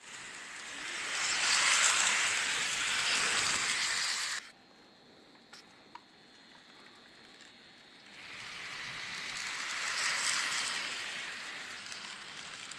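N scale model train running past close by on its track, a hissing rattle of small wheels and motor, twice. The first pass cuts off abruptly about four seconds in, and the second builds from about eight seconds in.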